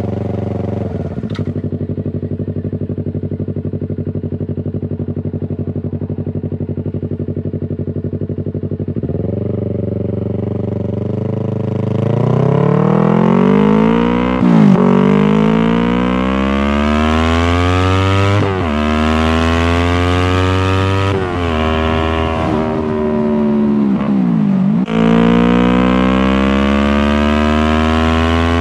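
2019 Yamaha R3's parallel-twin engine through a Toce full exhaust system with the dB killer installed, running steadily at low revs, then accelerating. Its pitch climbs and dips sharply four times, like upshifts.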